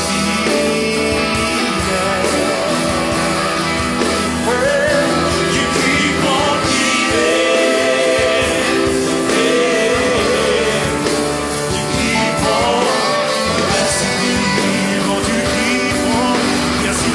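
Worship band music with singing over guitar and other instruments, playing steadily.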